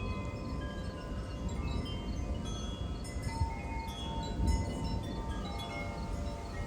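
Wind chimes ringing in gusty wind, many overlapping tones struck at irregular moments and left to ring, over a steady low rumble of wind.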